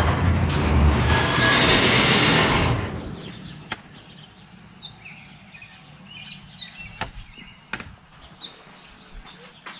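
A loud rushing noise that cuts off about three seconds in. After it, small birds chirp faintly over a quiet background, with a few sharp clicks.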